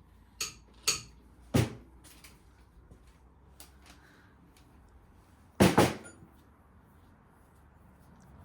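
Metal tools and parts knocking and clinking on a classic Mini engine being stripped down: three sharp clinks in the first two seconds, then a louder clattering knock a little past halfway.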